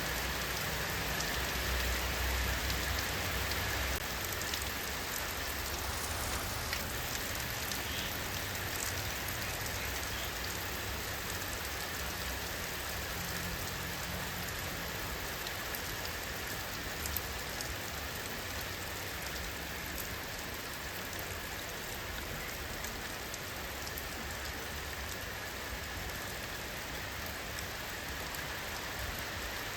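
Steady rainfall: an even wash of rain with scattered ticks of individual drops striking.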